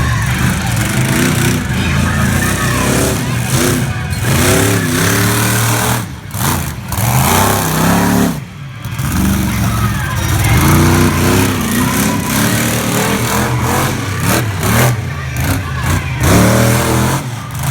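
Monster truck engine revving hard again and again, its pitch rising and falling with each throttle blip, with brief drops in level around six and eight and a half seconds in.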